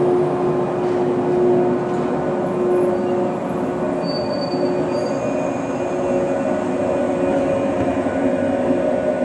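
Shinano Railway 115 series electric train rolling slowly into the platform as it arrives, a steady rumble with several held squealing tones from its wheels and brakes. A short high squeal comes about four seconds in.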